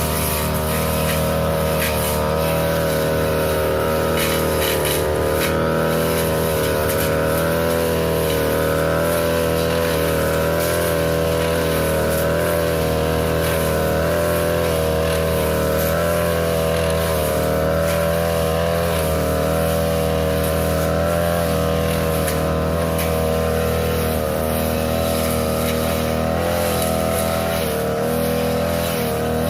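Small petrol engine of a grass-cutting machine running steadily at high speed while cutting thick, overgrown grass, its pitch wavering slightly under the changing load, with faint scattered ticks.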